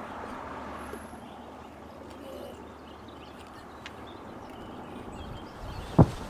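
Rustling of brush and twigs as someone pushes through woodland undergrowth, with a single heavy thump near the end.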